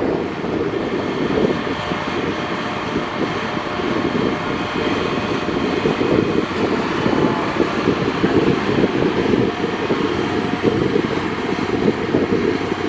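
Rolls-Royce Trent 700 jet engines of an Airbus A330-200F freighter running, a steady, loud, deep rumble with faint tones above it.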